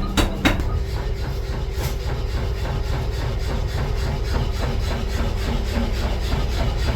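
Two metal hammer strikes in the first half-second, then workshop machinery running with a steady low rumble and a fast, even beat.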